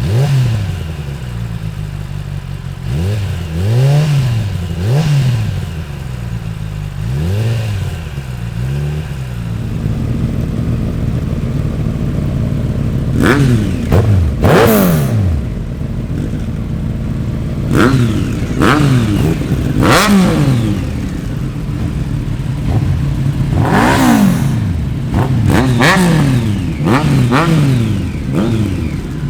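Superbike engine revved in repeated throttle blips, the pitch climbing and falling back each time, about a dozen in all. The blips come sharper and louder from about halfway through.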